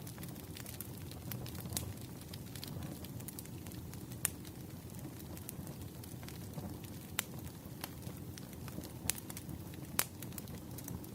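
Fireplace fire crackling: a steady low rumble with many scattered sharp pops, a few of them louder.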